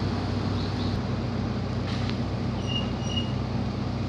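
Heavy machinery running with a steady low drone, unchanging throughout. Two short high chirps come about three seconds in.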